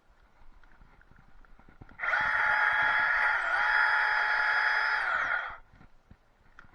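Chainsaw run briefly: it starts abruptly, runs at a steady high pitch for about three and a half seconds with a brief dip in pitch midway, then cuts off sharply.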